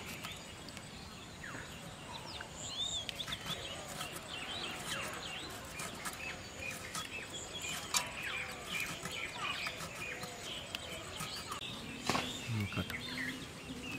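Small birds chirping and calling continuously, many short rising and falling notes, with a few sharp clicks about eight and twelve seconds in.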